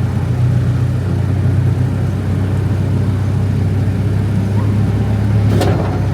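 Amusement-park train running, heard from aboard: a steady low drone of the locomotive and rolling wheels, with one short sharp clack about five and a half seconds in.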